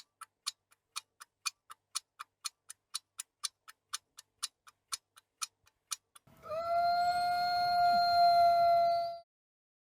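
Clock-like ticking at about four ticks a second, alternating louder and softer, for about six seconds. It is followed by a steady, high held tone with overtones that lasts about three seconds and then stops.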